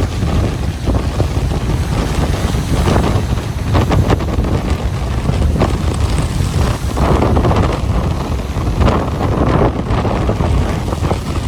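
Ocean surf on a beach, its waves washing in under heavy wind buffeting the microphone, which gives a constant low rumble with gusty swells.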